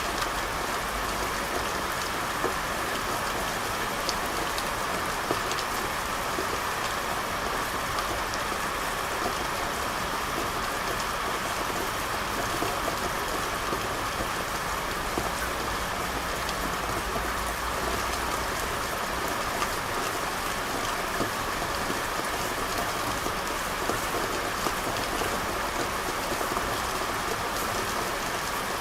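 Steady rain falling on a street: an even hiss with scattered small drop ticks and a faint low rumble beneath, unchanging throughout.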